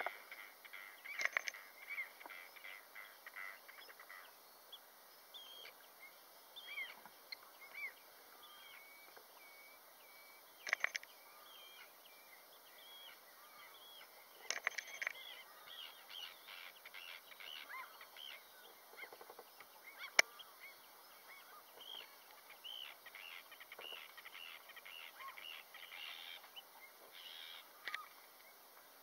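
Faint bird calls, many short calls scattered throughout with a few louder clusters, likely a flock of water birds. A single sharp click about twenty seconds in.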